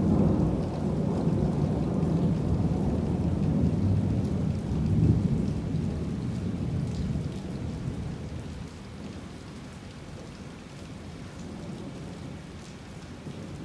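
Heavy rain falling steadily while a long roll of thunder breaks in suddenly, swells to its loudest about five seconds in, then rumbles away over the next few seconds, leaving only the rain.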